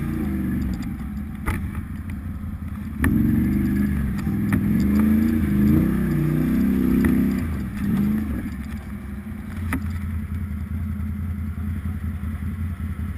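Off-road motorcycle engine revving up and down under throttle, then settling to a steady idle about eight seconds in, with a few sharp knocks.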